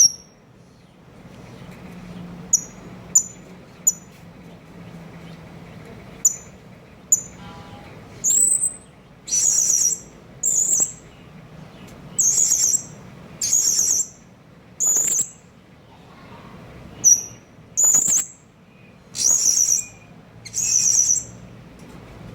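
Blue-crowned hanging parrot (serindit) calling: a few short, sharp, high chirps, then a run of longer high shrill calls, about one every second or so.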